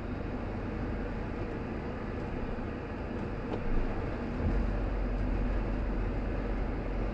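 Steady road and engine noise of a car driving along. There is a brief knock about four seconds in, and a deeper low rumble from there on.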